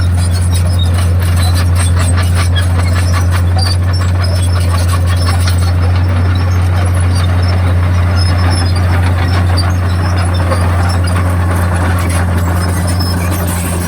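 Komatsu D51PX crawler bulldozer running: a steady low engine drone with rapid metallic clicking from its steel tracks.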